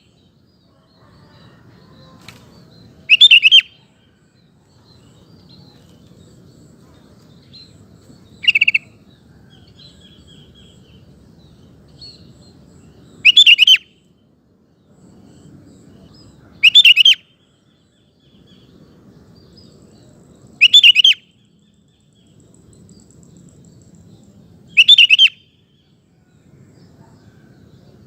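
Sooty-headed bulbul singing short, loud, bubbly phrases, six times, roughly every three to four seconds; the second phrase is shorter than the rest.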